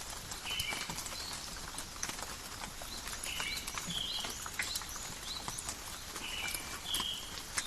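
Steady forest rain: many separate drops ticking and pattering on leaves. Short high animal calls come in pairs about every three seconds.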